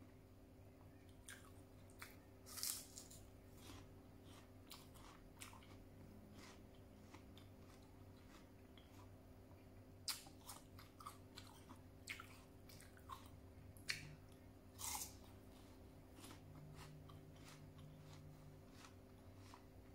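A person biting into and chewing crisp raw pear slices with fish, close to the microphone. There are sharp crunches about 3 seconds in, about 10 seconds in, and twice around 14 to 15 seconds, with quieter chewing clicks in between.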